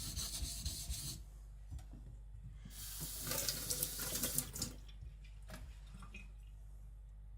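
Steel blade of a kiridashi rubbed in rocking strokes on a wet whetstone, with a slushy scraping sound: a run of strokes in the first second and another of about two seconds midway, with a few faint clicks after. The rocking puts a slight convex on the front face of the edge.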